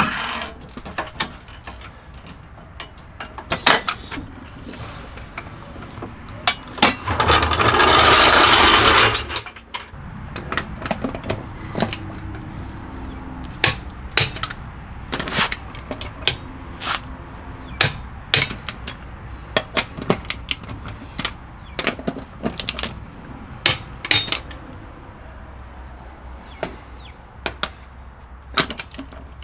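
Hand tools and parts clicking and knocking during car repair work, with a power tool running in one burst of about two and a half seconds about a quarter of the way in.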